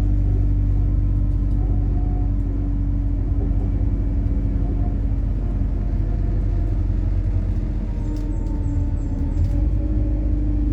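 MAZ-103 city bus on compressed natural gas, heard from inside the cabin while under way: a steady low engine and road rumble with a steady hum, and a few faint light ticks near the end.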